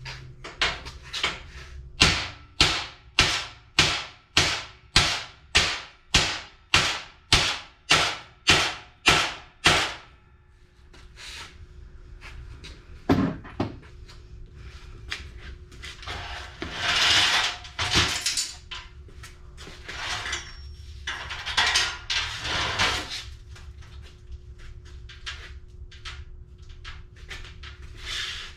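A steady run of about sixteen hammer blows, roughly two a second, beating on the mini bike. After the hammering stops come a few scattered knocks and a couple of longer scraping, rubbing noises.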